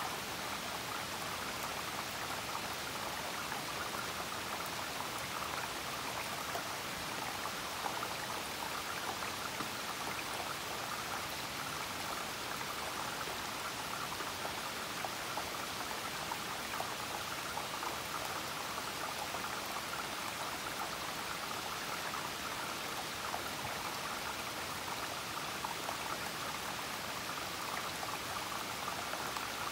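Steady rain falling, an even hiss made of a dense patter of drops that keeps up without a break.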